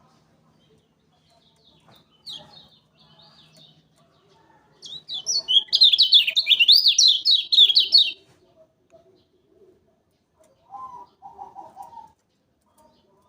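Kecial kuning (a Lombok white-eye) singing: a few faint high chirps, then a loud, fast run of rapid rising-and-falling chirps lasting about three seconds, followed by a few lower, quieter notes near the end.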